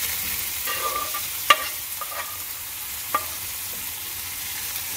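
Steamed vegetables sizzling in hot ghee and oil in a stainless steel pot as they are tipped in and stirred, a steady hiss broken by a few sharp metal clinks against the pot, the loudest about one and a half seconds in.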